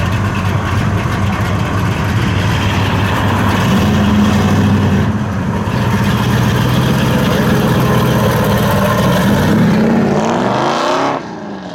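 A car engine running loud at high revs under a dense hiss of noise. Shortly before the end the revs climb steeply, then the sound cuts off suddenly.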